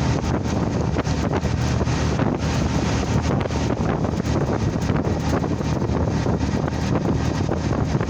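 Strong wind buffeting the microphone: a steady, loud, low rumbling rush.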